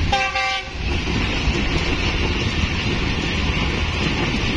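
Passenger train running at speed, heard from on board: a steady rumble of wheels on the track with wind noise on the microphone. A short pitched tone sounds in the first half second.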